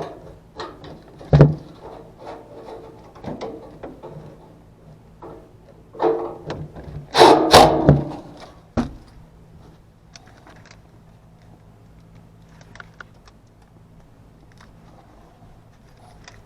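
Scattered knocks, clanks and rattles of things being handled, loudest about a second and a half in and again around seven to eight seconds in, dying down to a few light ticks later, over a faint steady low hum.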